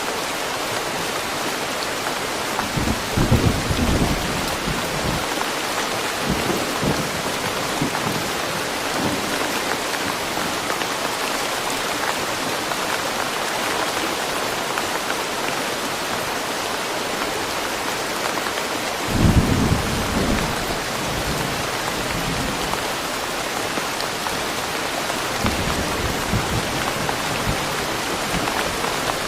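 Steady rain falling in woodland, an even hiss of drops, with low rumbles of distant thunder about three seconds in, again louder a little before twenty seconds, and faintly near the end.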